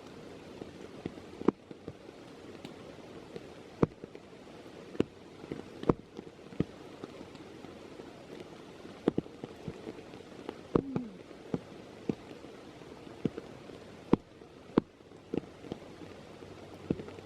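Steady rain in woodland, with large drops landing in irregular sharp taps about once a second.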